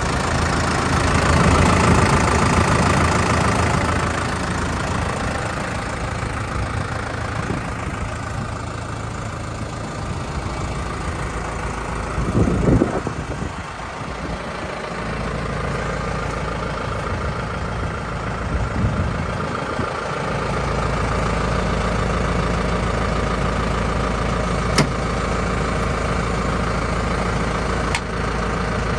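Case JXU105 tractor's diesel engine running steadily at idle, a little louder for the first few seconds. A brief louder noise comes about halfway through, and two sharp clicks come near the end.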